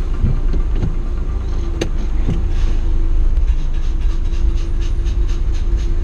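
Mazda Roadster's four-cylinder engine idling as the car creeps forward, heard from the open cockpit as a steady low rumble, with a single sharp click about two seconds in.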